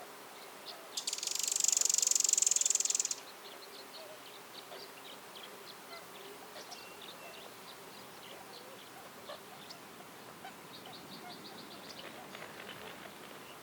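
A loud buzzing insect call, high and rapidly pulsed, starts about a second in and lasts about two seconds. Around it are scattered faint bird chirps, with a quick run of ticking bird notes near the end.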